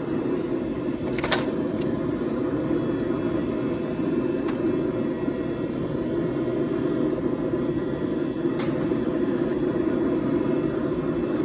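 Forge running with a steady low roar, with a few sharp metallic clicks, one about a second in and one about two-thirds of the way through.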